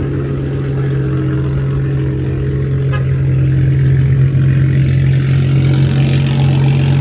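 Toyota Supra with a loud exhaust idling close by, a steady deep drone that gets a little louder about halfway through.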